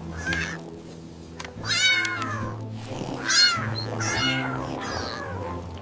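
A cat meowing several times, short high-pitched meows that rise and fall, over light background music.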